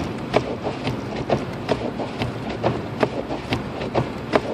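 Quick, slightly uneven ticking or knocking inside a moving car's cabin, about two to three a second, over steady road noise.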